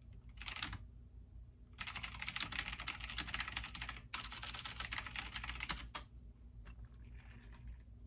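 Computer keyboard typing: a short burst of keystrokes, then about four seconds of fast continuous typing with a brief pause in the middle.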